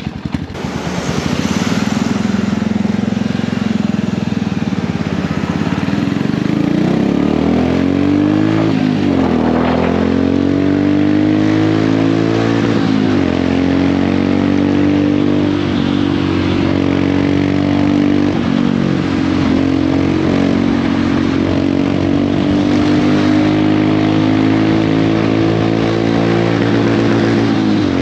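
Royal Enfield Hunter 350's single-cylinder engine and exhaust pulling away from idle and accelerating, the note dropping at gear changes about nine and thirteen seconds in, then running at a steady cruise with the pitch rising slowly.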